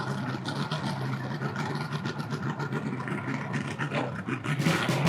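Boat motor running steadily at low speed, a continuous low hum.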